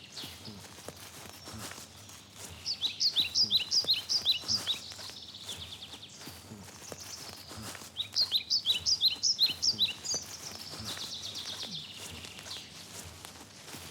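A songbird sings two quick phrases of rapid, downward-sweeping chirps, about three seconds in and again about eight seconds in, over faint outdoor ambience.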